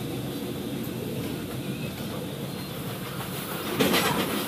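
A passenger train running, heard from inside the carriage: a steady rumble of the wheels on the track, with a louder rattling clatter near the end.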